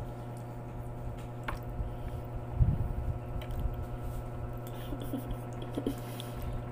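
Close-up eating sounds: wet chewing and finger-licking as food is eaten by hand, over a steady low hum. A soft low thump about two and a half seconds in.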